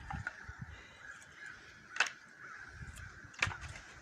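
Faint bird calls repeating over and over, with two sharp knocks about a second and a half apart.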